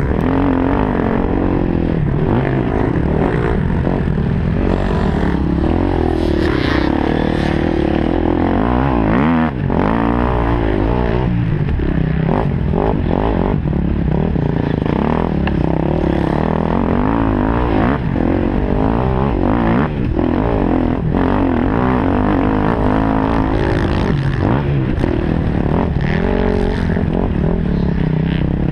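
KTM 250 SX-F single-cylinder four-stroke motocross engine revving hard and easing off again and again as it is ridden round the track. The engine note rises and falls continuously, with a brief dip about nine seconds in.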